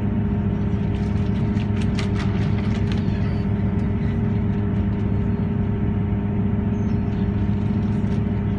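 Diesel passenger train heard from inside the carriage: a steady low engine and running drone, with a few faint clicks about two seconds in.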